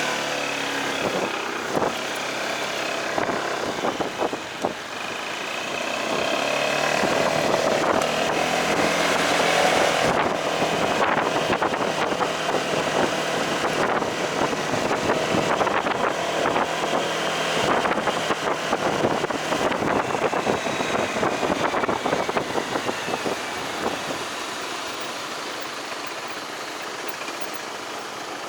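Delivery motorcycle riding in traffic, its engine note climbing as it speeds up about a quarter of the way in, then holding steady, with wind rushing over the microphone.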